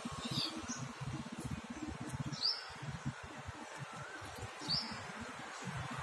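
A bird chirping three times, about two seconds apart, each call short and high, over a low rumble.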